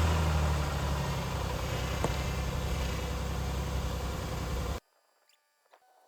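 2010 Jeep Liberty's 3.7-litre V6 idling just after starting, steady and fairly loud, during an oil change. It cuts off suddenly about five seconds in.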